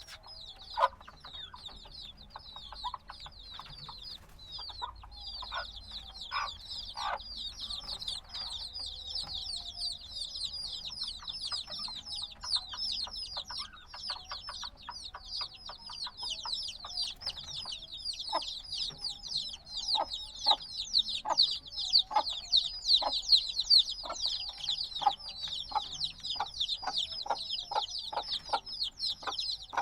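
A brood of chicks a few days old peeping constantly, with many quick, high, falling chirps overlapping. The chirping pauses briefly about four seconds in and grows louder in the second half, with many short ticks heard beneath it.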